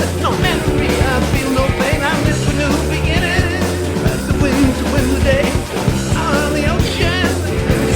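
Hard rock song playing: distorted electric guitars, bass and drums, with a wavering vocal or lead guitar line over them.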